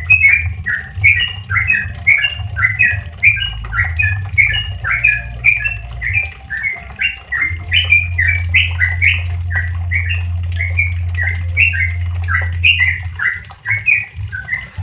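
Yellow-vented bulbul (trucukan) singing the fast, unbroken 'ropel' run of short chattering notes, several a second, with a steady low hum underneath.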